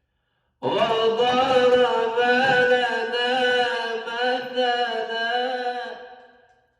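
A man's voice chanting Quran recitation in the melodic tajweed style: one long, drawn-out phrase with a gently wavering pitch. It begins about half a second in and fades away near the end.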